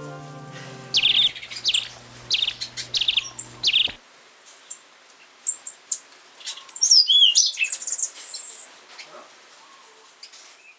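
Small aviary songbirds chirping and singing: a handful of short trilled notes in the first few seconds, then a run of quick whistled and twittering notes with a high held note near the end. Background music fades out under the first notes.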